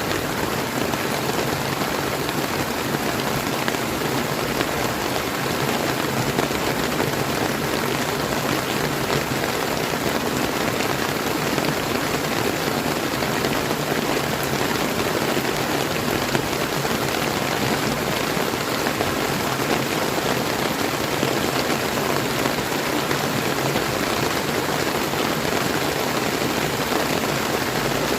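Steady rain falling together with the flowing water of a clear river, making one even, unbroken hiss.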